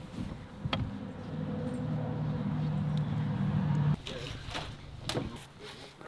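A vehicle engine running with a steady low hum that grows louder and then cuts off abruptly about four seconds in, followed by a few knocks.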